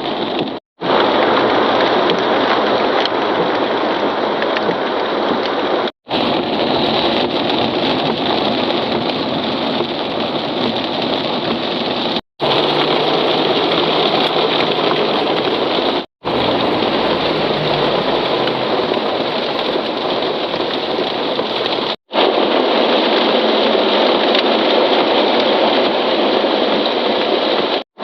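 Heavy rain pouring down in a steady hiss, in several short shots joined by brief cuts. In the middle stretch a low vehicle engine hum runs under the rain.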